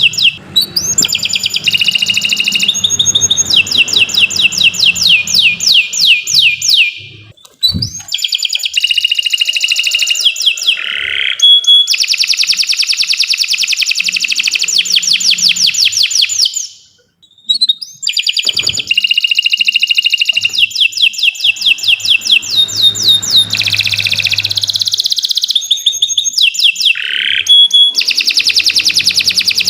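Domestic canary singing a long, loud song of rapid trills and rolls, with two brief pauses between phrases.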